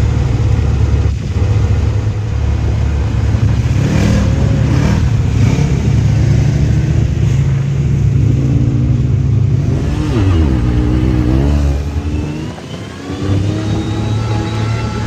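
Side-by-side UTV engine running under way, its pitch rising and falling with the throttle. Engine speed dips and climbs again about ten seconds in, briefly drops off near twelve seconds, then rises steadily toward the end.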